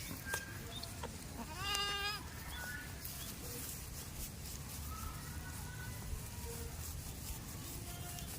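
A goat bleats once, a single pitched call about a second long that rises at its start, with a steady low background of farmyard noise.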